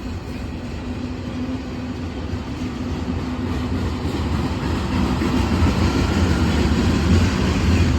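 Freight train cars rolling past on the track: a steady rumble of steel wheels on rail that grows gradually louder.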